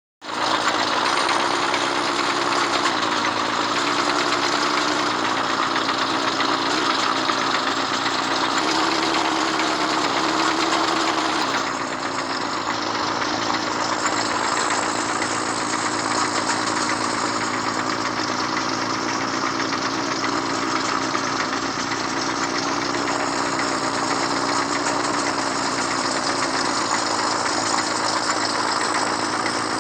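Excavator's diesel engine running steadily. About twelve seconds in, the sound changes and becomes a little quieter and duller, then stays steady.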